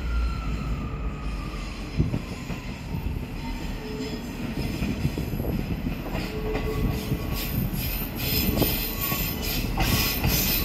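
ScotRail Class 158 diesel multiple unit pulling into the station: a low diesel rumble with wheels squealing on the rails, growing louder with sharp clicking over the last few seconds as the train draws alongside.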